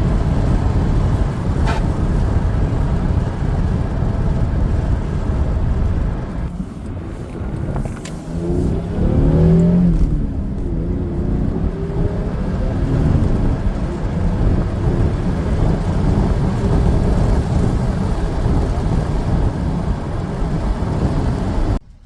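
Lexus SC300's 2JZ inline-six engine and road noise heard on the move, with the engine note dipping and then revving up and falling back about eight to ten seconds in.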